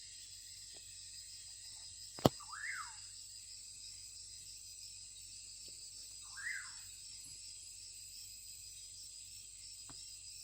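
Rainforest insects making a steady high drone, one band of it a fast pulsing buzz, with a bird giving two short calls that swoop up and back down, a few seconds apart. A sharp click comes about two seconds in, just before the first call.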